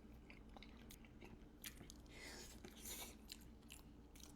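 Faint, close-up mouth sounds of someone eating: soft chewing with scattered small wet clicks and a few brief smacks.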